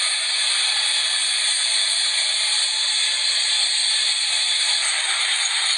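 Loud, steady hissing noise with no rhythm or pitch.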